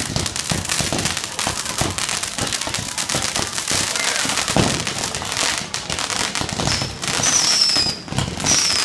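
Fireworks display: a dense, rapid run of crackling bangs and pops. From about seven seconds in, high whistles falling in pitch join the cracks.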